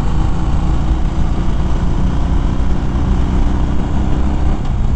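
Harley-Davidson Fat Bob's V-twin engine running steadily while riding at cruising speed, with a steady engine note.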